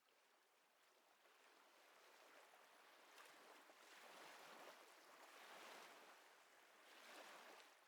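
Faint ocean waves washing in a soft hiss that swells and ebbs a few times.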